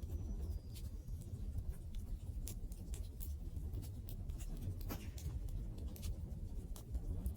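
Wood fire (takibi) crackling, with sharp pops at irregular intervals over a steady low rumble. A faint high whistle falls in pitch in the first second.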